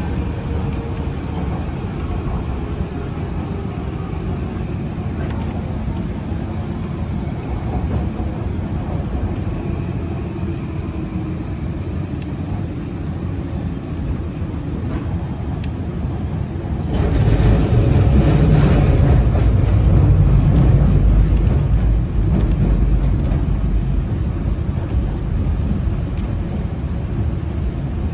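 Hanshin Jet Car commuter train running, heard from the driver's cab: steady wheel-on-rail rumble and motor hum, with a faint tone sliding down early on. About two-thirds through, the rumble grows louder for several seconds as the train rolls over the turnouts ahead of the station.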